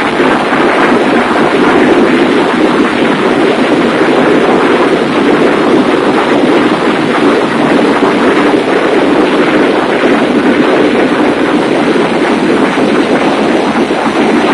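Engine-room machinery of a large passenger ferry running: a loud, steady noise with no distinct beat or break.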